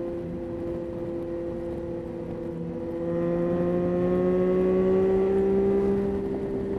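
Yamaha Tracer 9's 890 cc inline-three engine running under way, getting louder about three seconds in as its pitch climbs slowly under gentle acceleration, then easing off near the end.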